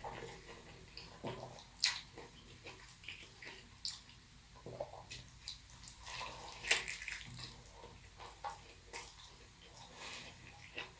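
Close-miked chewing of a burrito, with irregular wet mouth smacks and soft clicks scattered throughout.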